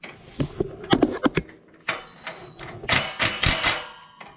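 A run of sharp clicks and knocks, then a denser clatter about three seconds in: hand tools and metal parts being handled while working on a walk-behind mower's engine.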